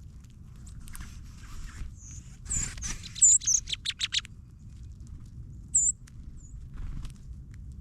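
Small songbirds giving short, high chip calls: a few single chips and a quick run of notes about halfway through, with brief rustling early on over a faint low rumble.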